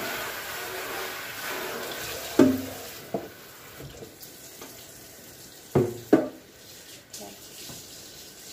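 A faucet runs into a sink as plastic fridge bins are rinsed. The water gets quieter about two and a half seconds in, and the bins knock hollowly against the sink a few times, with a loud pair of knocks later on.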